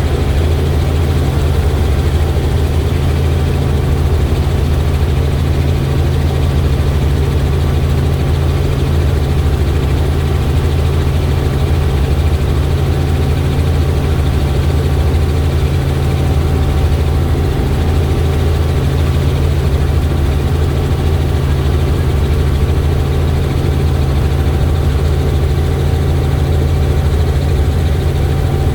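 Helicopter in flight: a steady drone of the engine and rotor, with a strong low hum and a faint steady whine above it.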